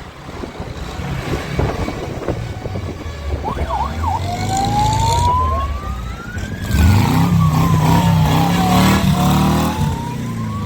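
A siren wailing: a few quick yelps, then a slow rise, fall and rise again. Underneath it, engines run steadily and grow louder about two-thirds of the way through.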